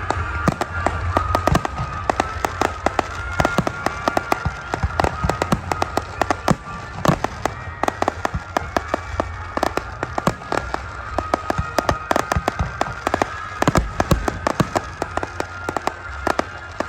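Fireworks bursting in rapid succession: dense sharp cracks and pops, several a second, over a steady low rumble.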